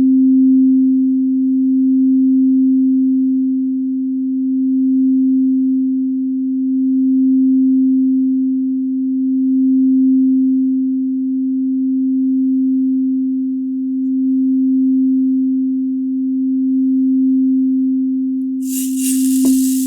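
A singing bowl for a root chakra session, sounding one low, steady tone that swells and eases in a slow pulse every couple of seconds. Near the end a hiss comes in over it.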